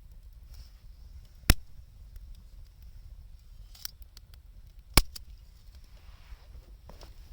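Burning wood in a campfire popping: two loud sharp cracks about three and a half seconds apart, with a few fainter crackles between them, over a steady low rumble.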